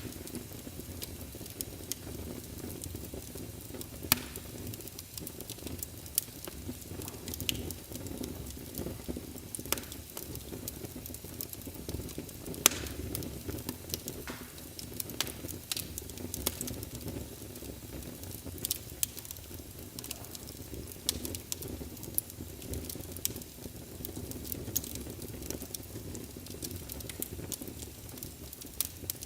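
Wood logs burning in a fireplace: a steady low rumble of the flames with irregular sharp crackles and pops from the burning wood, a dozen or more scattered through the stretch.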